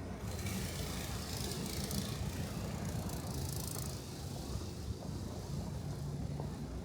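Street traffic on snow-covered roads: a steady low rumble, with a hiss of tyres through slush that fades out about four seconds in.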